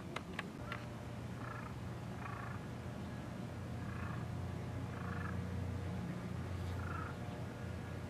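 A handful of short, distant bird calls, irregularly spaced about a second apart, over a steady low rumble, with a few sharp clicks in the first second.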